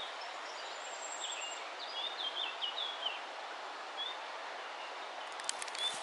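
A songbird singing a quick phrase of short, high, falling chirped notes about a second in, then single high whistled notes later, over a steady hiss of background noise. A few sharp clicks near the end.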